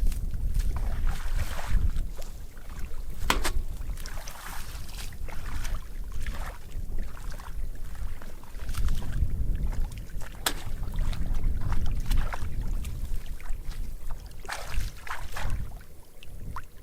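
Water sloshing and splashing with frequent short sharp splashes or knocks, over a rumble of wind on the microphone.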